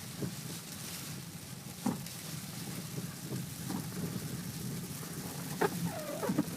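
Inside a 1992 Lexus driving slowly through deep snow: a steady drone of engine and tyres, broken by a few sharp knocks and creaks. A short wavering squeak comes near the end.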